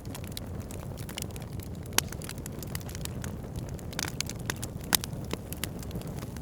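Fireplace fire crackling over a steady low rumble of flames, with frequent sharp pops; two pops, about two seconds in and near five seconds, stand out loudest.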